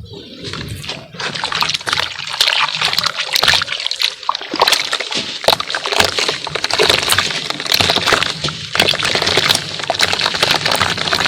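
A lump of pure cement dipped in water and crumbling apart, with water sloshing and a dense run of small crackles as it breaks up.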